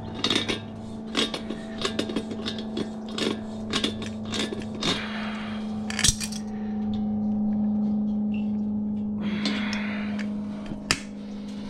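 Irregular metallic clinks, clatters and scrapes of steel tools and stock being handled, with one sharper clank about six seconds in. A steady low hum runs beneath, and a short hissing rush comes near the end.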